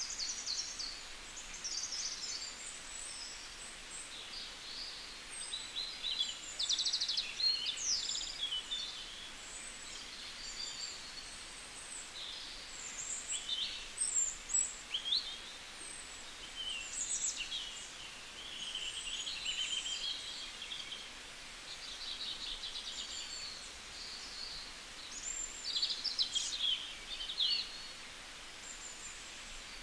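Small birds chirping and calling over a steady background hiss: short high chirps, quick sweeps and a few trills, busiest about 7 seconds in, in the middle, and again near the end.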